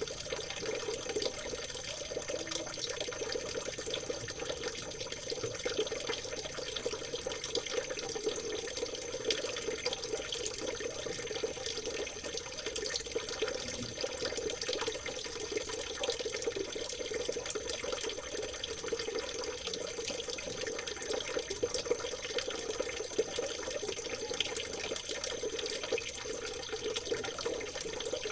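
Water trickling and babbling over stones in a small stream, a steady, unbroken splashing. A faint steady high-pitched tone runs underneath.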